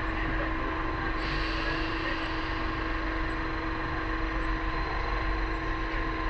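A vehicle running with a steady hum and a constant whine over a bed of noise.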